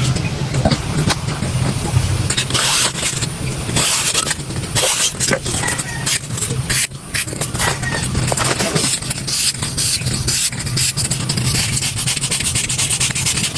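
Dry marsh reed being scraped and handled, a busy, uneven run of scrapes and crackly clicks, with a low hum under it that fades out a couple of seconds in.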